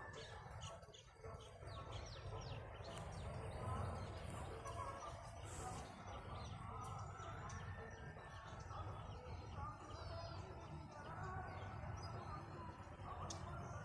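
Several birds chirping and calling together, with short high chirps scattered throughout over a steady low rumble.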